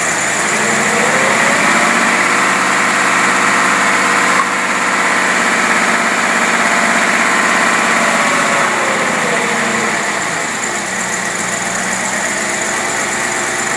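Gasoline engine running on a Holley marine four-barrel carburetor under test: it speeds up about a second in, holds a raised speed, then settles back to idle around nine to ten seconds in.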